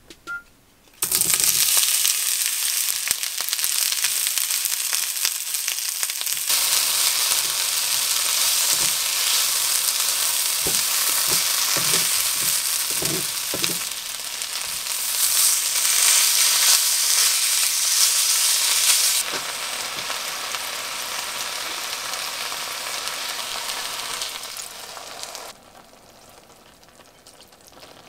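Sliced onion and green onion sizzling in hot oil in a frying pan, starting about a second in, with a few knocks of a utensil as they are stirred. The sizzle grows louder once sliced beef goes into the pan, then dies down near the end.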